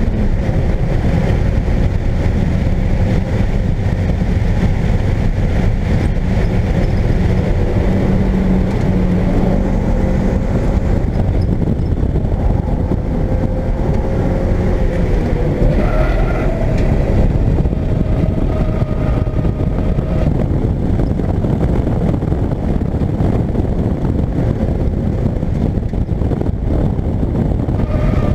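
Car engine running hard at high revs on a track lap, heard from inside the cabin along with road and wind noise. The engine note shifts in pitch a little past the middle, then settles again.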